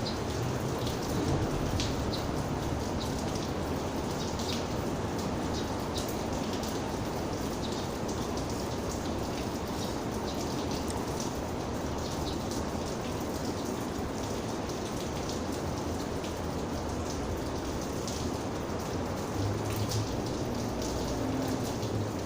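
Steady rain falling, with scattered individual raindrops ticking through it. A low rumble joins in near the end.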